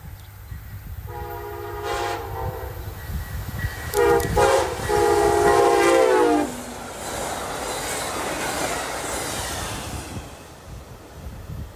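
Locomotive air horn sounding the grade-crossing pattern: a long blast, a short one about four seconds in, and a final long blast that drops in pitch as the locomotive passes. Then the rushing rumble of the train rolling by, fading away near the end.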